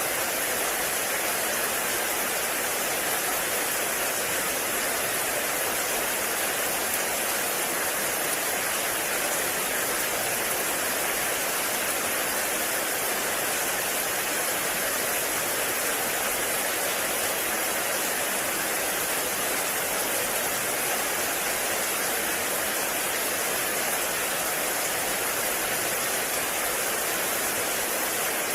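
Heavy rain falling steadily, a dense, even hiss with no breaks or changes.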